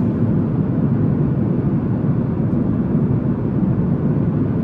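Steady cabin noise of a Boeing 737 MAX 8 in cruise: a constant low rush of airflow and engine noise.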